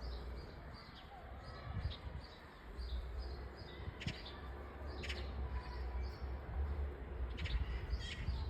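Small birds chirping, many short high chirps, over a steady low rumble.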